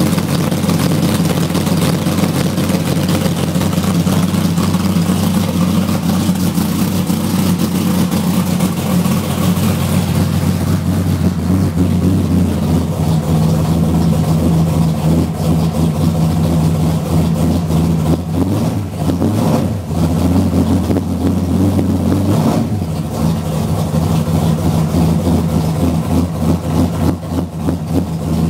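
Reher-Morrison 565 cu in big-block Chevy V8 idling through a full dual 4-inch exhaust with Borla mufflers, a loud, steady, deep exhaust note with a couple of brief changes in the second half.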